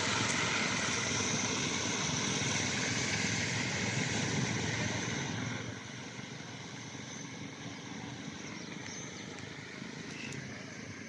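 Steady motor vehicle noise, louder for about the first five seconds and then quieter.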